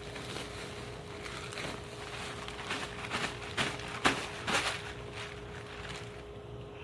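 Wet hardwood mulch being handled: a run of short rustles and scrapes, the loudest about four seconds in, over a faint steady hum.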